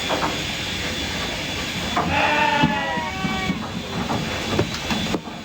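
A sheep bleating once, about two seconds in: a quavering call lasting just over a second, over a steady noisy background with a few sharp clicks.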